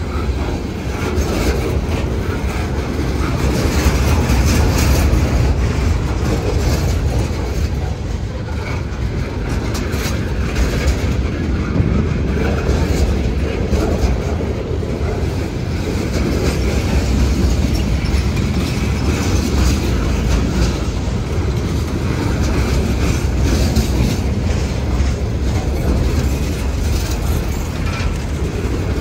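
Freight cars of a mixed train (tank cars, boxcars, covered hoppers) rolling past close by: a steady heavy rumble of steel wheels on rail. Scattered clicks and clanks come through as the wheel sets cross rail joints.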